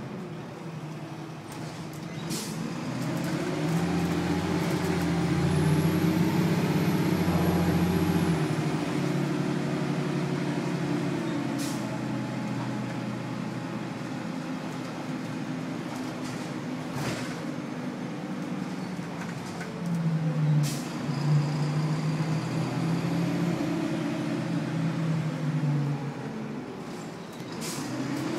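Onboard a 2000 Nova Bus LFS: its Detroit Diesel Series 40 inline-six diesel engine pulls hard for several seconds from about two seconds in, eases back, then pulls again near the end, with a few sharp knocks and rattles from the bus body.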